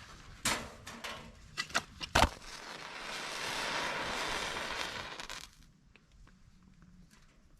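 Handling clatter with a few sharp knocks, the loudest about two seconds in, followed by a steady hiss for about three seconds that fades out, then a few faint ticks.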